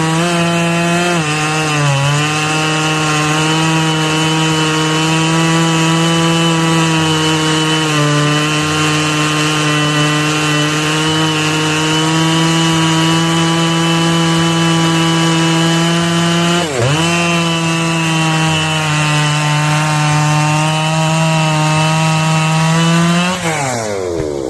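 Husqvarna 3120 XP chainsaw, a 118.8 cc two-stroke, running at high revs through a long cut in wood. Its pitch dips briefly near the start and again about 17 seconds in, then falls away near the end.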